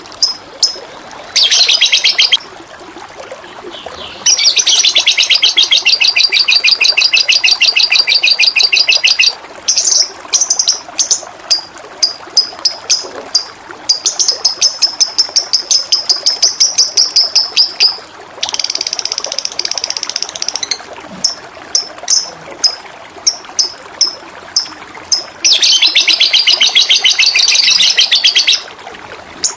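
A songbird singing: long, very fast trills of one to five seconds alternating with runs of separate sharp chirps, over a faint steady rush of running water.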